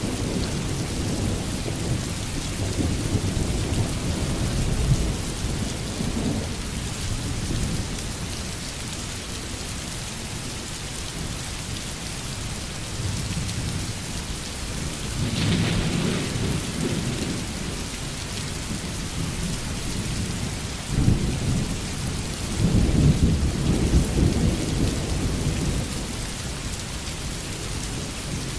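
Steady heavy rain falling, with thunder rumbling low several times, loudest in a long roll a little after the middle and again near the end.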